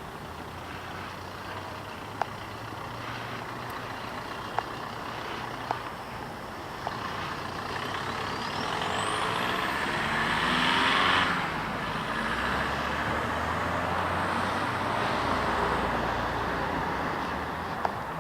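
Road traffic: a motor vehicle passes close by, growing louder to a peak about ten seconds in, its pitch dropping as it goes past, with a few sharp clicks.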